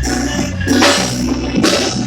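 Live cumbia band playing: bass and keyboards under percussion keeping a steady beat.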